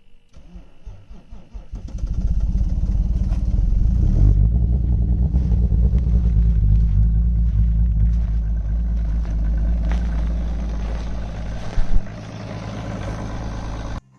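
BMW 525 diesel engine cold-started at about minus 25 °C. The starter cranks for about two seconds before the engine catches and runs loud and steady. Near the end there is a short louder rev, after which it runs quieter until the sound cuts off.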